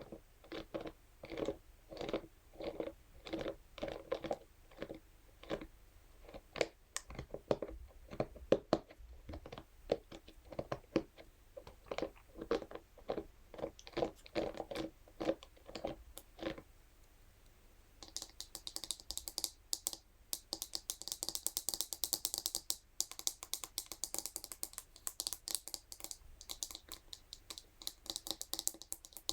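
Scalp massage brush worked against a surface in ASMR style: regular strokes about two a second, then after a brief pause near the middle, a fast run of crisp, high scratching clicks.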